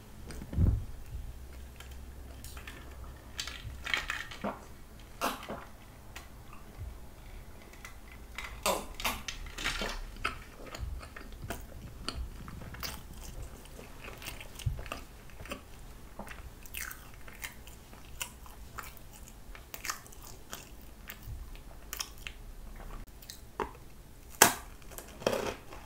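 A person chewing soft bread, with scattered small crackles and mouth clicks. Near the end comes a sharp crunchy bite into a Hello Kitty-shaped butter cookie, the loudest sound here.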